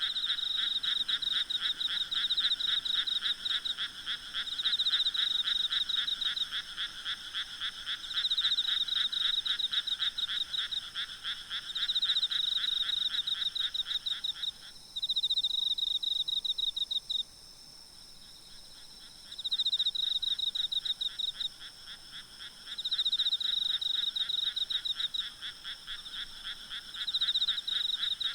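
A night chorus of frogs: dense, rapidly pulsed croaking in overlapping bouts of a few seconds each. It thins out for a couple of seconds past the middle, then swells back. A steady high insect trilling runs underneath.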